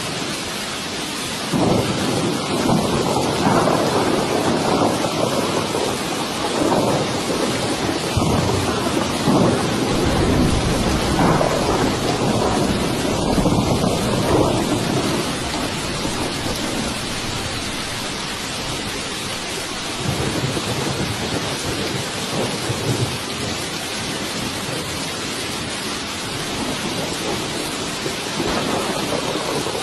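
Steady heavy rain hissing, with rolling thunder rumbling over it: a long rumble through roughly the first half, and weaker ones about two-thirds of the way in and near the end.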